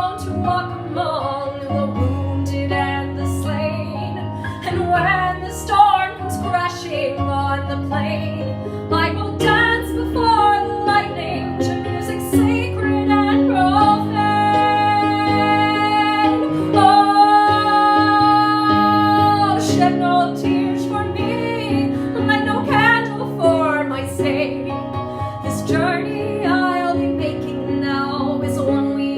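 A woman singing a slow musical-theatre ballad over instrumental accompaniment, holding two long notes in the middle.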